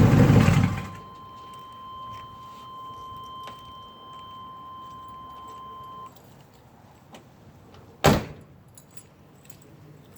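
The 1997 Chevy Tahoe's engine, straight-piped true dual with no catalytic converters, cuts off just under a second in. A steady high warning tone then sounds for about five seconds. About eight seconds in, a single loud slam follows, like a car door shutting.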